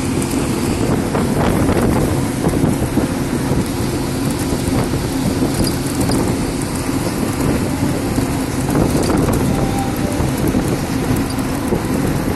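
Steady rumble of a moving road vehicle, road and engine noise with wind buffeting the microphone.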